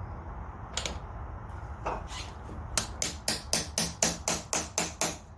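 Two single metal knocks, then a quick, even run of about a dozen ringing taps, roughly five a second, as a hand tool is tapped against metal on the chainsaw's bar nut.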